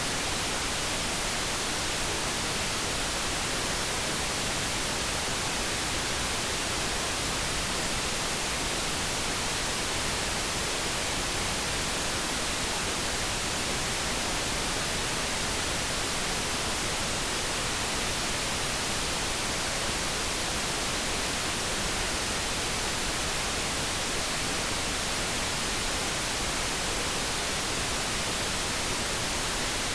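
Steady synthetic noise, an even, unchanging hiss with no tones, clicks or other sounds in it.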